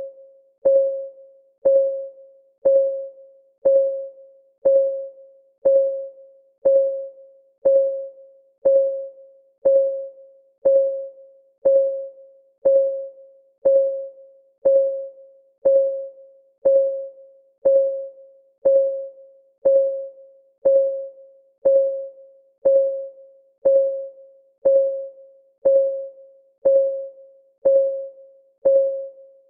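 Clock ticking sound of a countdown timer: one short tick each second, each a ringing note that dies away quickly, perfectly steady and even.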